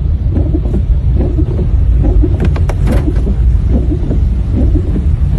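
Car cabin noise while driving through heavy rain on a waterlogged road: a loud, steady low rumble from the tyres and road, with a few brief sharp clicks about two and a half to three seconds in.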